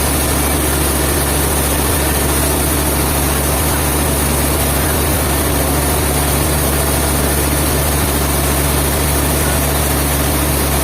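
Heavy engine running steadily at a constant speed, with a deep low hum.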